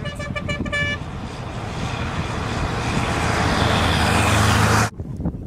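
A car horn tooting in quick short blasts, then the rushing noise of a fast car growing steadily louder for about four seconds as it comes on, cut off abruptly near the end.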